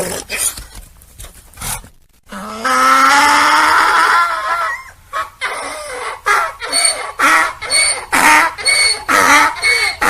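Donkey braying. A long drawn-out rising note comes about two seconds in, then a loud run of rhythmic hee-haw pulses at about two a second.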